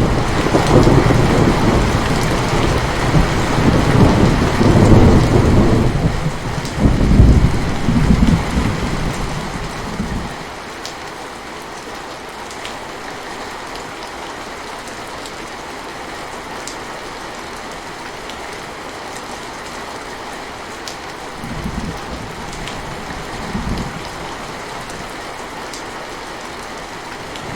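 Steady heavy rain with a long, loud roll of thunder over the first ten seconds, then the rain alone. Two short, softer rumbles of thunder come about three-quarters of the way through.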